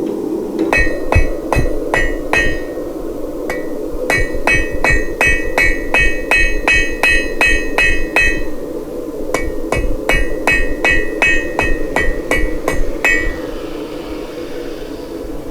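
Hand hammer striking hot steel on an anvil, about three to four blows a second in three runs with short pauses between, each blow ringing with a bright metallic ring. A steady low hum runs underneath.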